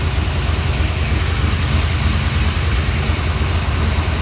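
Vehicle engine idling steadily, with the rapid puffing of an exhaust leak.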